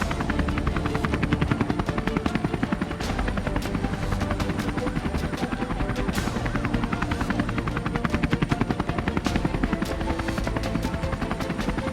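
Rescue helicopter hovering close by, its rotor beating in a rapid, steady chop.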